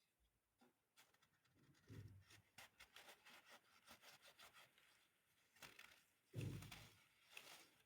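Chunks of baking soda being crushed: faint, crisp crackling and crumbling, with a soft thud about two seconds in and a heavier crunch about six and a half seconds in.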